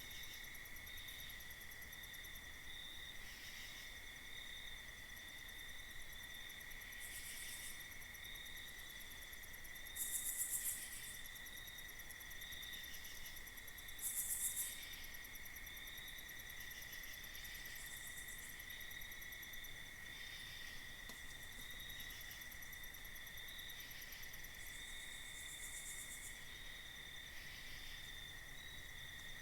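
Night insect chorus of crickets trilling steadily, with short high-pitched buzzy calls from other insects breaking in now and then, the two loudest about ten and fourteen seconds in.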